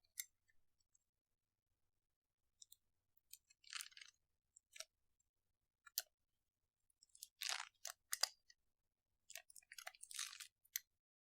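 Slime being squeezed and poked by hand, giving a series of short crackly pops and clicks at irregular intervals, the loudest clusters a little past halfway and near the end.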